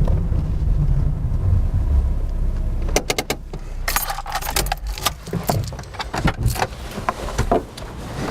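Low rumble of a car for about three seconds, then a run of sharp clicks and light metallic jangling.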